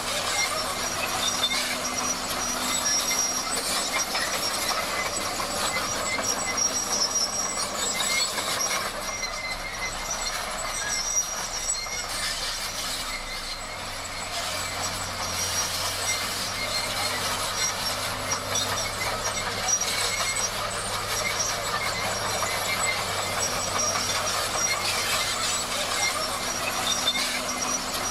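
Crawler bulldozer at work: the engine runs steadily under a continuous metallic clatter and squeal from the steel tracks. The noise eases slightly about halfway through.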